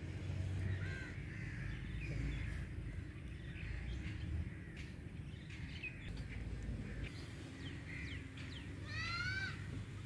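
Birds calling in the background: scattered short calls, then a quick run of short calls near the end, over a low steady rumble.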